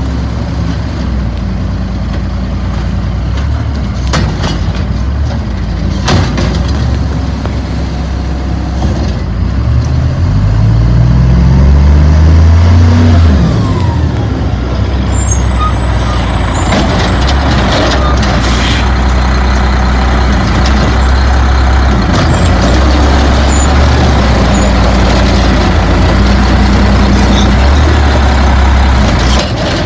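Peterbilt 320 garbage truck's diesel engine running loud, revving up with a rising pitch about a third of the way in and then settling back to a steady run. Several short sharp hisses or knocks come over it.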